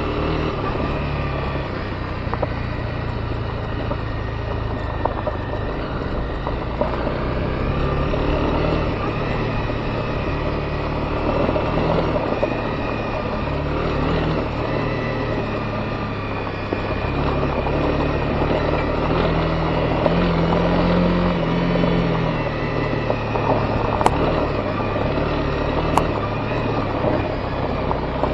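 Honda CB250R's single-cylinder engine running under way on a dirt forest road, its pitch rising and falling with the throttle, over a steady noise of tyres on gravel and wind. Two sharp ticks come near the end.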